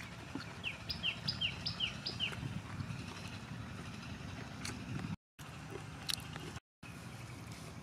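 A bird calls five times in quick succession, each note a short falling whistle, over chewing and a few sharp clicks of eating. The sound cuts out completely twice for a moment near the end.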